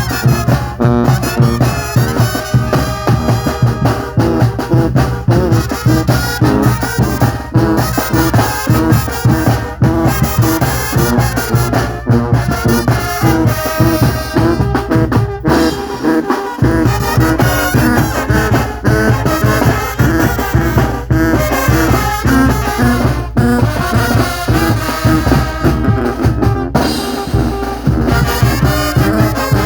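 Mexican banda (brass band) playing: trombones and trumpets over drums with a steady beat. The bass drops out briefly about halfway through and again near the end.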